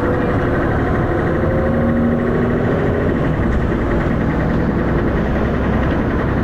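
Dennis Arrow double-deck bus engine running with a steady low drone.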